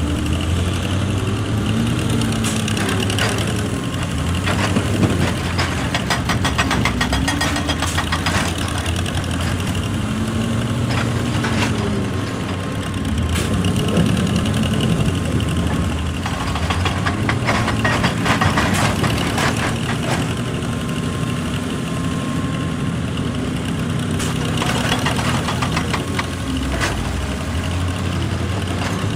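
Excavator's diesel engine running steadily, its pitch rising and falling every few seconds as the hydraulics take load, with scattered knocks and clatters of the bucket working rock.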